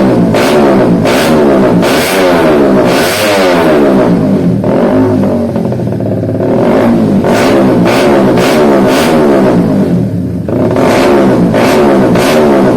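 Honda CBR150's single-cylinder four-stroke engine being revved in a rapid series of throttle blips during a tune-up, the pitch climbing and dropping with each blip. It eases off to a lower, steadier note twice before the blipping resumes.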